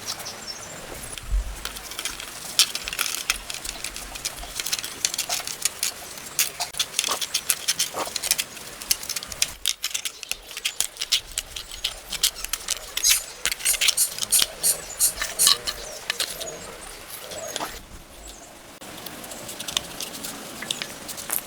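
Many quick, irregular clicks and light taps of hard objects being handled, with short lulls about ten seconds in and again near eighteen seconds.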